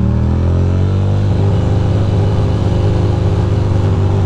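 Ducati Monster's V-twin engine running under way, its note shifting in pitch over the first second or so and then holding steady, with road and wind noise.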